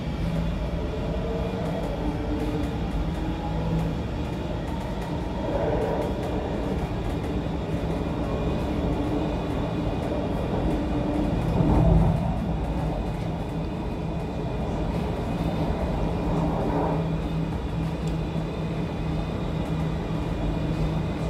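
Inside an MTR C-Train electric multiple unit running between stations: a continuous rumble of wheels on the rails, with the steady hum and whine of the traction motors. There is a brief louder rumble about halfway through.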